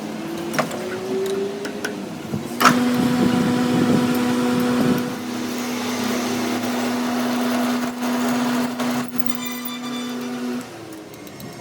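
A workshop machine motor starts with a sharp clunk and runs with a steady hum, then cuts off near the end.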